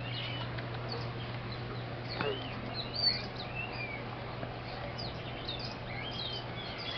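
Several birds chirping and whistling in short, scattered calls over a steady low hum.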